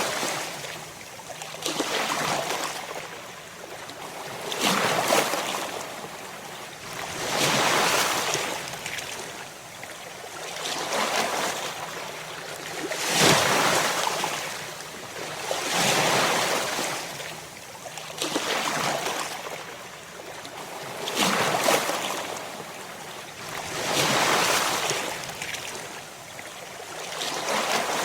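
Ocean waves breaking on a shore, the surf swelling and falling back in regular surges about every three seconds.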